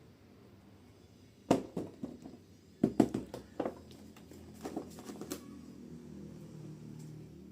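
Clicks and knocks of a plastic model train and its parts being handled and set down during unboxing and assembly: a cluster of sharp knocks, then scattered lighter clicks.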